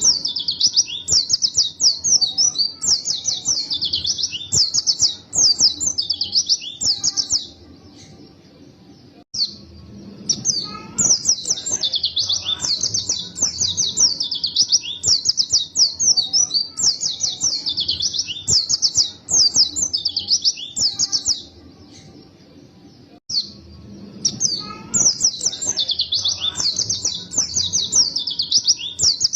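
Pleci (white-eye) singing fast, high-pitched, continuous warbling chirps in long unbroken runs. The song breaks off twice for about two seconds.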